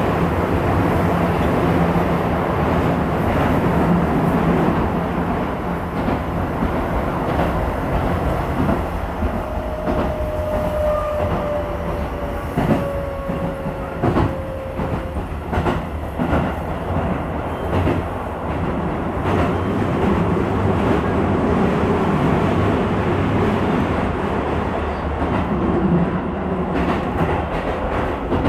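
Keisei 3000 series electric commuter train running on rails, a steady rumble with clicks of the wheels over rail joints. A faint tone slides slowly down in pitch through the middle.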